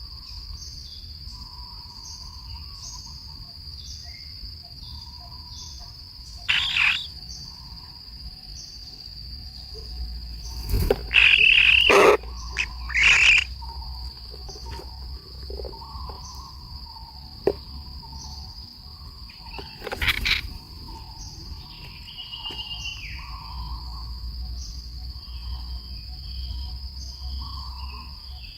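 A steady high insect chorus of crickets trilling in regular pulses. Over it come a few loud, short bird calls and sharp clicks in the middle stretch, and one falling call near the end.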